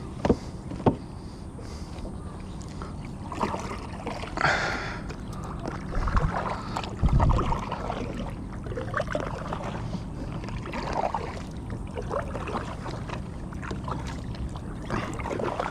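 Sounds of a kayak on the water: water sloshing and splashing with knocks against the hull. There are a few sharp clicks about a second in and two heavier low thumps around the middle.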